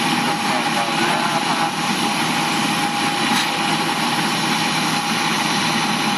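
A truck engine idling steadily, with a constant high whine over it.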